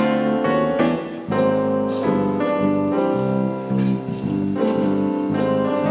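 Piano playing a gentle chordal accompaniment, the introduction to a choir song.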